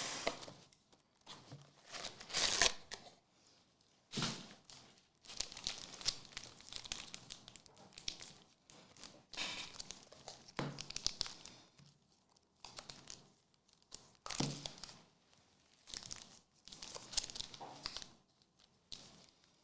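Foil trading-card packs being torn open and their wrappers crinkled, in irregular rustling bursts every second or two, with cards being handled.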